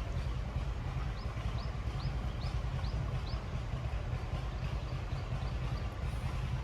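An engine running steadily with a fast low beat. For a couple of seconds a short high chirp repeats about twice a second over it.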